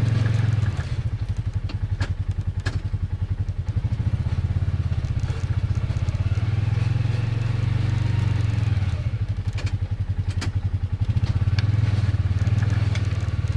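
Dirt bike engine running steadily at idle, its note pulsing at times, with a few sharp knocks about two seconds in and again near the ten-second mark.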